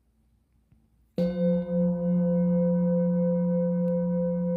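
A singing bowl struck once about a second in, then ringing on with a steady low tone and several higher overtones, its loudness gently pulsing.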